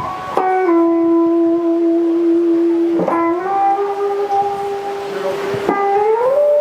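Long held musical notes, each sustained without fading for two to three seconds, with the pitch sliding upward into a new note about three seconds in and again near the end, in a horn-like tone.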